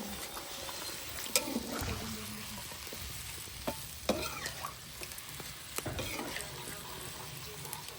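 Chicken curry sizzling in a pot as it is stirred, with a few sharp clicks of the spoon against the pot.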